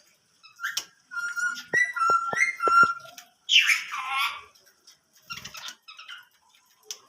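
Pet bird whistling a short run of clear notes with a few sharp clicks among them, then one loud harsh squawk about three and a half seconds in, followed by a few faint chirps.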